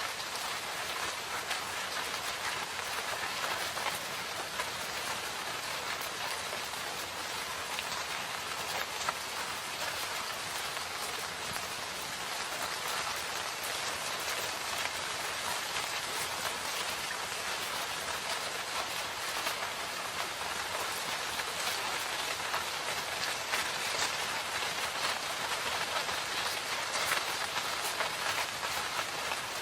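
Steady rain falling in a forest, a dense even hiss of drops with fine individual drips throughout.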